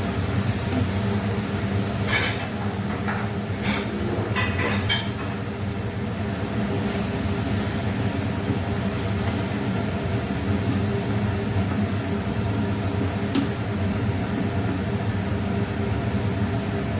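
A spoon clinking and scraping against a metal kadai several times in the first five seconds while tomatoes are stirred. Under it runs a steady low hum.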